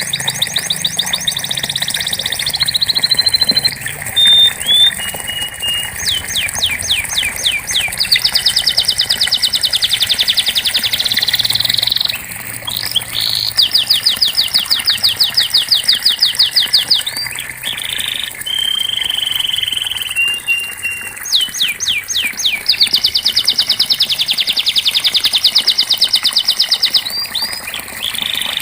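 Domestic canary singing long rolling trills of fast repeated notes, some sweeping downward. The trills are broken by short chips and brief whistled notes.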